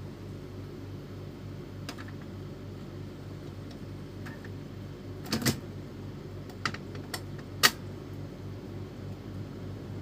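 Epson L310 inkjet printer's mechanism running through its power-on cycle: a steady low hum with scattered sharp clicks, the loudest about seven and a half seconds in.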